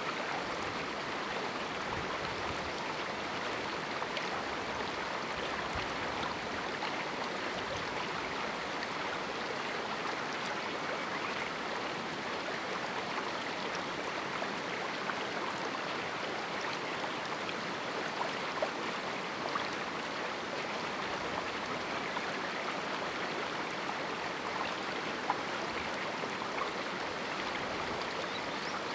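River water flowing over rocks in a small canyon: a steady rushing babble with small splashes, a few slightly louder ones near the middle and later on.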